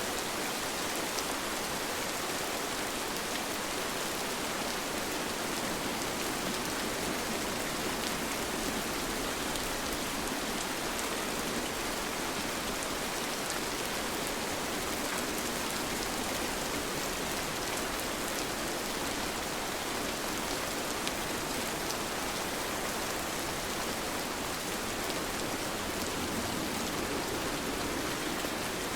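Steady rain falling, an even patter of drops with faint scattered individual drop ticks.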